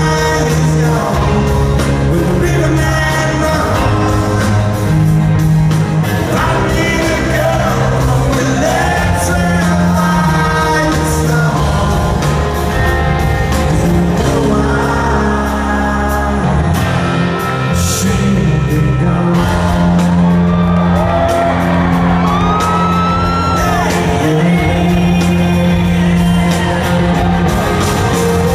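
Live rock band playing a song with a man singing, bass and guitars, echoing in a large hall. Audience shouts and whoops come over the music.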